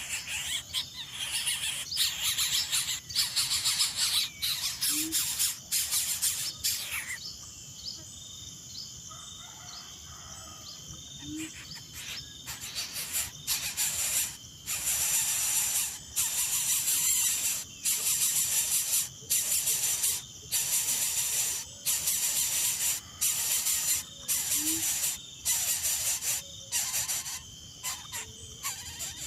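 Coucal nestlings giving harsh, rasping begging calls, a run at first and then about once a second after a pause of several seconds, over a steady high insect drone.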